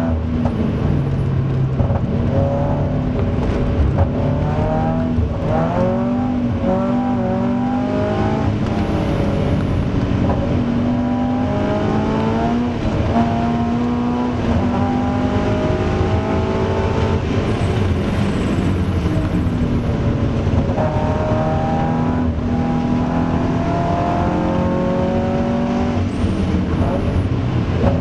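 Toyota GT86's FA20 2.0-litre flat-four engine heard from inside the cabin at hard track pace, revving up in repeated rising sweeps to near 7,000 rpm with a drop in pitch at each gear change, then falling back as the car slows for corners.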